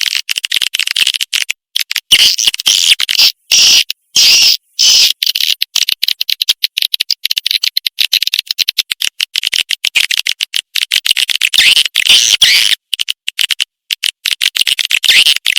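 Recorded swiftlet calls used as a lure for edible-nest swiftlets: a dense, fast, high-pitched twittering chatter, broken by frequent brief gaps.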